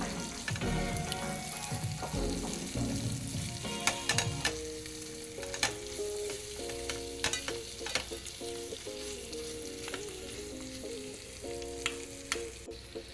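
Chicken curry gravy sizzling in the pan as it is stirred, with a few sharp clicks of the spoon against the pan, over light background music.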